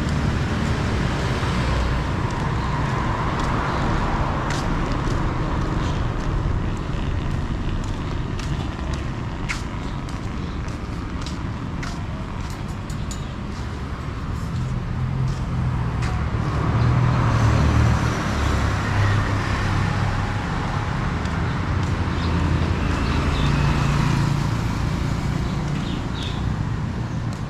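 Road traffic: a steady rumble of motor vehicles, with vehicles passing close and swelling louder about three seconds in, around the middle, and again near the end.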